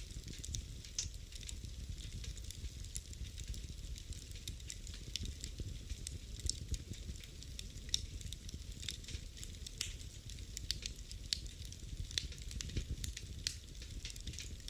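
Wood fire burning in a fireplace: a steady low rumble of flame with irregular sharp crackles and pops, several a second.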